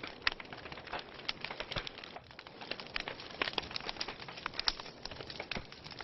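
Wood fire burning in a fireplace, crackling with frequent sharp, irregular pops over a soft steady hiss.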